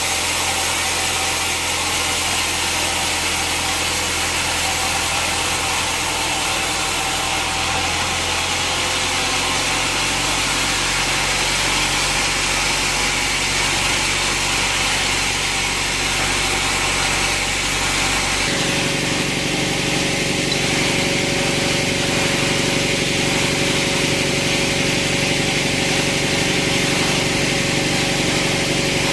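Sawmill machinery running steadily with a motor hum. Its sound changes abruptly about 18 seconds in, when the low hum shifts to a new pitch.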